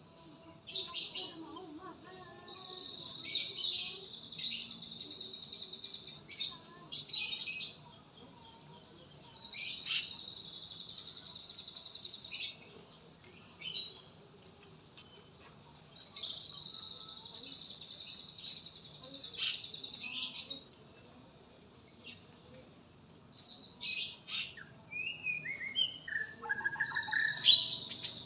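Songbirds: repeated stretches of high, rapid, buzzy trilling about three to four seconds long, several seconds apart, with short chirps between, and clearer falling whistled notes near the end.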